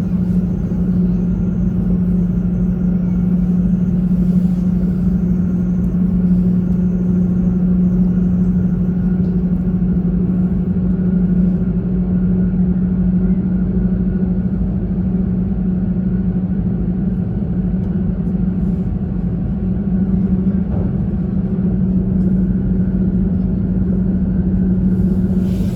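Steady running noise of an E2 series Shinkansen heard inside the passenger cabin: a continuous rumble with a steady low hum.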